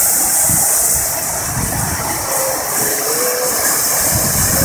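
A waterfall's steady rush of falling water, close and loud, with a continuous hiss over a low rumble.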